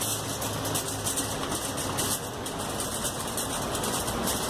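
A steady low mechanical hum under a haze of background noise.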